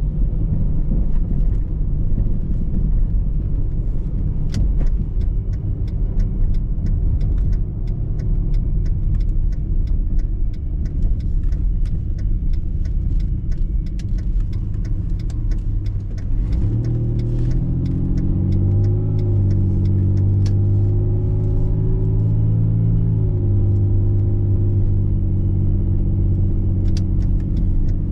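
Car interior road noise while driving: a steady low rumble of tyres and engine with scattered faint ticks. About two-thirds of the way through, a steady engine and drivetrain hum rises in and holds.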